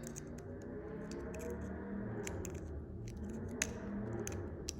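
Light clicks and scrapes of small metal parts as a motorcycle fuel valve is taken apart by hand, with one sharper click about three and a half seconds in, over a steady low hum.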